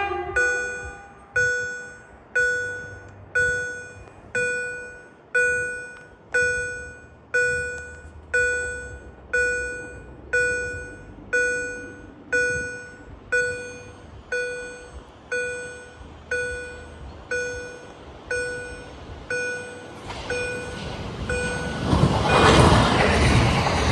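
Railway level-crossing warning bell striking about once a second in an even ding-ding rhythm. Near the end a passing train's rushing noise builds up and drowns the bell.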